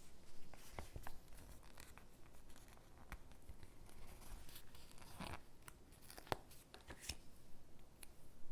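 Stickers being peeled from their backing sheet and pressed onto paper cutouts: faint peeling and paper rustling with scattered light taps and clicks.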